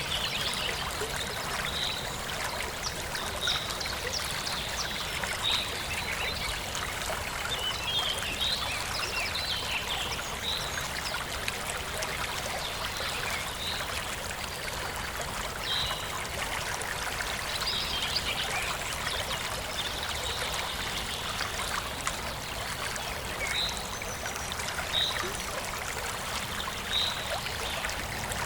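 Forest stream babbling and trickling steadily over stones, with birds chirping in short calls every second or two.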